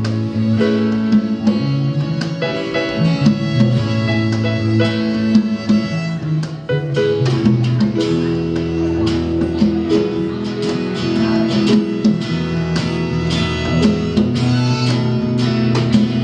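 A live band playing an instrumental passage with guitar to the fore: plucked and strummed notes over held chords, with no singing.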